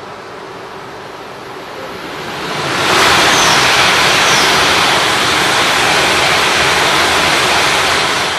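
A shinkansen train passing through the station at high speed on a nearby track: a rush of air and wheel noise that builds over about three seconds, stays loud for about five seconds, then starts to fade near the end.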